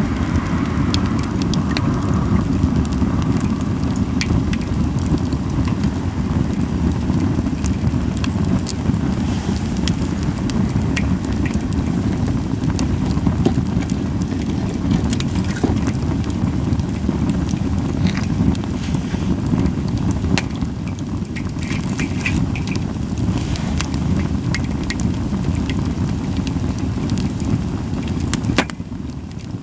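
Wood fire of Japanese white pine logs burning, with scattered crackles and pops over a steady low rumble; little hissing.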